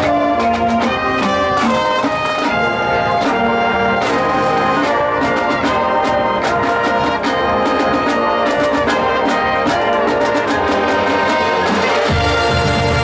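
High school marching band playing, with trumpets and trombones carrying the music over frequent percussion hits. A low rumble joins near the end.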